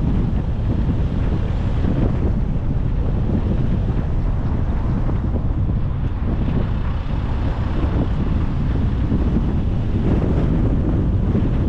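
Steady wind and road noise from a moving car, with wind buffeting the microphone.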